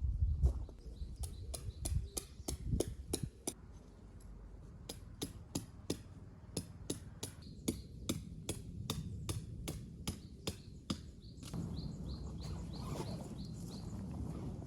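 Hammer driving tent pegs into the ground with quick, sharp blows, about two or three a second, in two runs with a short pause between. Birds chirp in the background.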